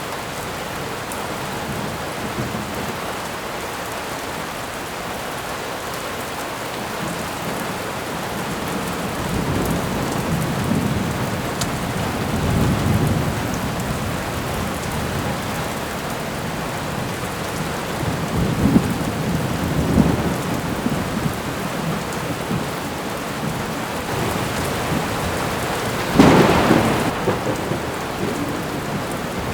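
Thunderstorm: steady heavy rain with rolling thunder rumbling about a third of the way in and again past halfway, and a sharper, louder thunderclap near the end.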